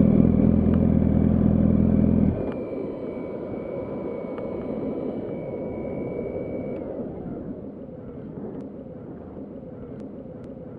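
Yamaha R1's inline-four engine idling steadily, then switched off suddenly about two seconds in. A faint high whine lingers under low street noise and fades out around seven seconds in.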